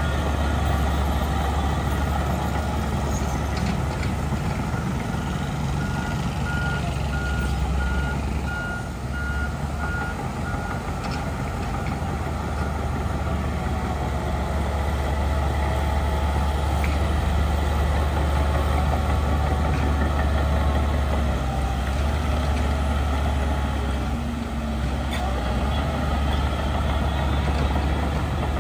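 Heavy diesel earthmoving machinery running steadily with a deep low rumble. A reversing alarm beeps at an even pace over it and stops about a third of the way in.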